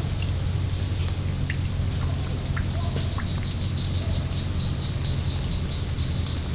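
A steady high-pitched insect trill, cricket- or cicada-like, over a low steady hum, with a few faint clicks.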